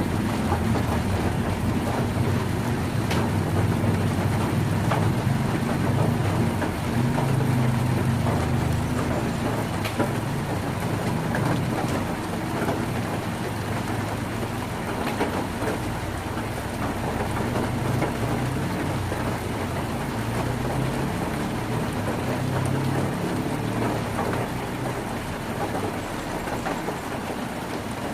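Heavy rain drumming steadily on a tin roof, with a low rumble underneath and a few louder single drop strikes.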